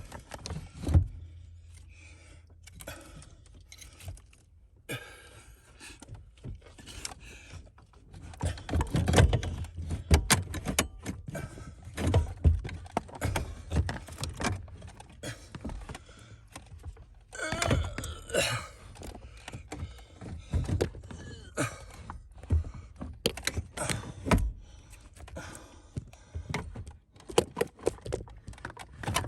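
Irregular clicks, knocks and light metallic clinks of hand tools and parts being handled during work on a car's steering wheel assembly.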